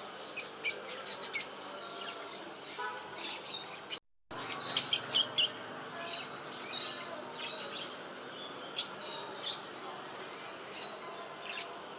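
Pet cage birds chirping in short, sharp calls: two dense flurries near the start and about five seconds in, then scattered chirps. The sound cuts out completely for a moment about four seconds in.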